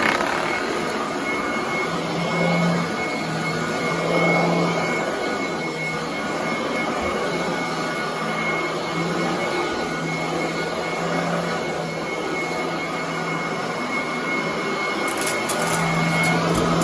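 Commercial upright vacuum cleaner running on carpet: a steady motor whine over a rushing noise, with a low hum that swells and fades. Near the end comes a run of quick ticks and clicks.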